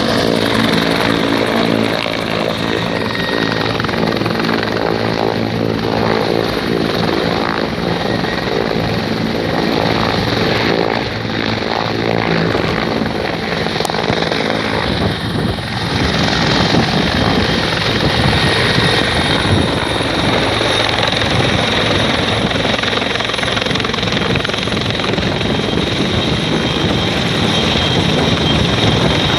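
Helicopter running loud and close, its rotor and turbine giving a steady pitched hum for the first half, turning into a denser rushing noise from about halfway through.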